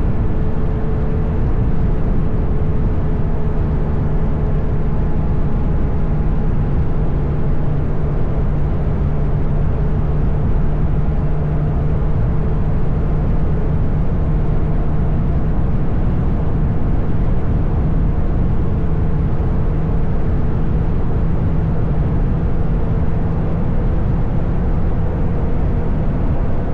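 Motorcycle engine running at a steady cruising speed, its note holding even throughout.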